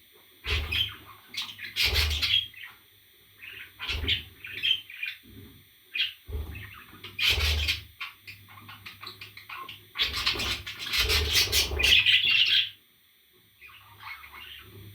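Pet parrot squawking and calling in a string of short, irregular bursts. The longest and loudest run of calls comes about two-thirds of the way in.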